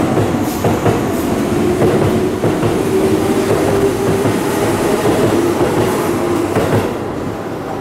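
Keihan 2200-series electric train pulling out and picking up speed past the platform. Its wheels click over the rail joints, and a motor hum climbs slowly in pitch. The sound drops off about seven seconds in as the last car goes by.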